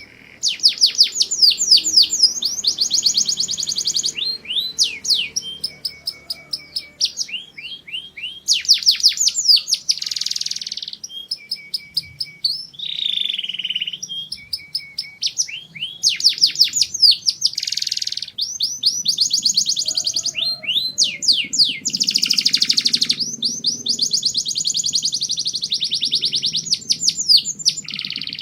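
Domestic canary singing a long, continuous song of rapid trills: runs of quick repeated high notes, each sweeping downward, strung together phrase after phrase with brief pauses.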